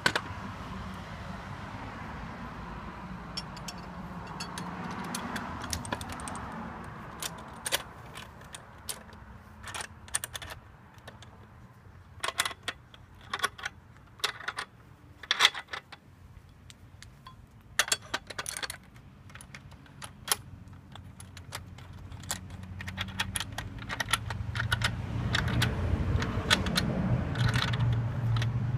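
Irregular sharp metal clicks and clinks of parts of a manual butt welding machine for PE pipes being handled. They run over a low steady hum that grows louder again from about 24 seconds in.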